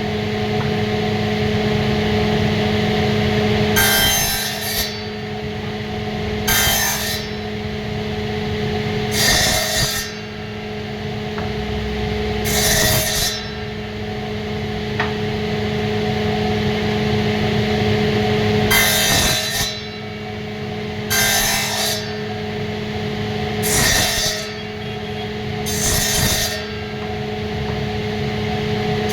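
A hand tool worked across wood in short strokes, one roughly every two to three seconds, with a pause in the middle, over a steady low hum.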